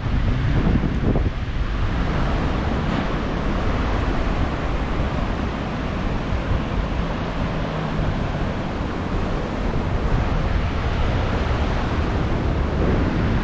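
Surf breaking and washing on a beach under strong wind, with wind buffeting the microphone as a steady low rumble.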